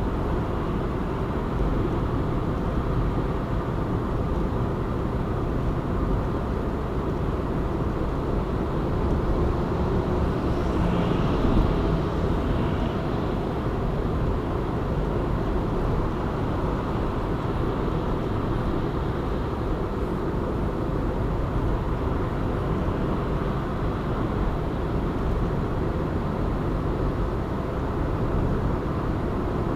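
Steady road noise of a car driving at speed: a low rumble of tyres and engine, with a brief swell and some higher hiss about eleven seconds in.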